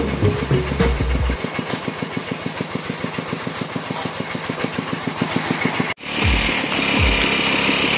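Engine running with rapid, even pulses, typical of a drilling rig's engine idling. The sound breaks off abruptly about six seconds in and gives way to a different machine noise with a higher whine.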